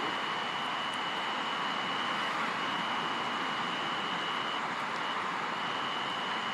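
Steady rushing noise of surf breaking on the beach, with a thin, steady high tone that stops and starts a few times.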